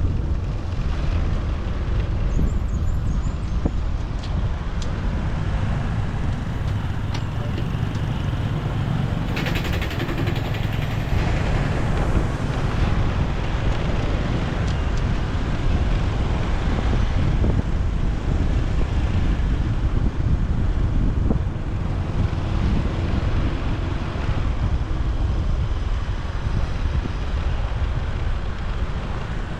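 Motorbike riding through city traffic: steady engine and road noise, with wind buffeting the microphone. A brief hiss comes about ten seconds in.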